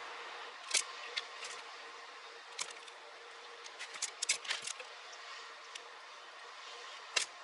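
Scattered small clicks and taps of hands working wires and plastic connectors at a car's wiring harness, with a cluster of quick clicks about four seconds in and a sharper click near the end, over a steady faint hiss.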